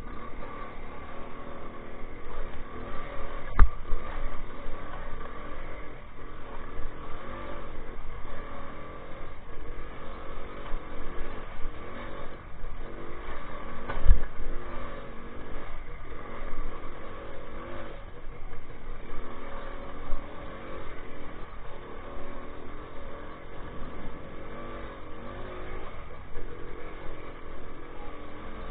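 Minsk 125's single-cylinder two-stroke engine running as the motorcycle is ridden, its pitch rising and falling with the throttle. Two sharp thumps stand out, about three seconds in and again near the middle.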